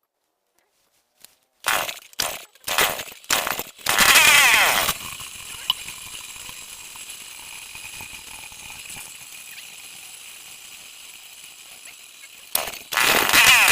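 Stihl 070 two-stroke chainsaw being started: a few short bursts as it fires, then it catches about four seconds in with a brief rev. It runs steadily and revs up again near the end.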